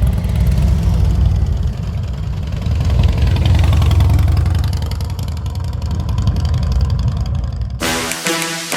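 Motorcycle engine running with a steady, deep rumble. Music cuts in near the end.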